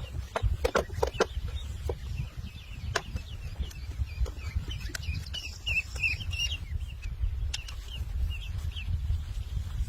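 Birds calling in quick, short, high chirps, thickest in the middle of the stretch. A few sharp knocks come in the first second or so, over a steady low rumble.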